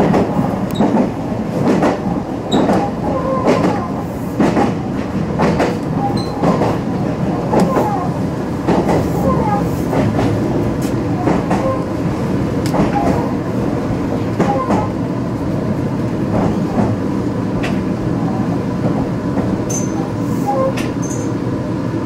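Meitetsu electric commuter train running on track, heard from inside the driver's cab. A steady rumble is broken by sharp clicks of the wheels over rail joints every half second to a second.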